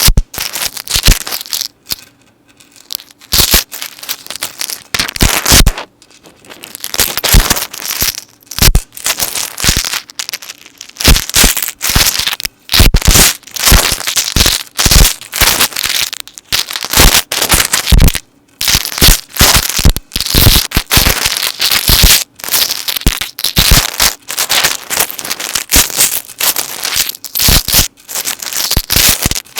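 Metal necklace chains handled close to the microphone: a dense, continuous run of jingling and clinking, with a few short pauses.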